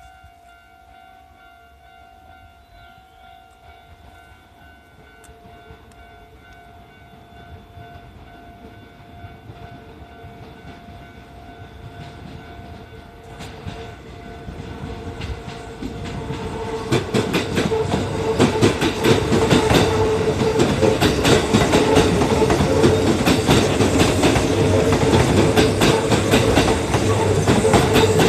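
A Kintetsu electric train approaching and passing over a level crossing, growing steadily louder for about 17 seconds and then a fast, loud clatter of wheels over the rail joints as the cars go by. A level crossing alarm rings with steady tones through the first half.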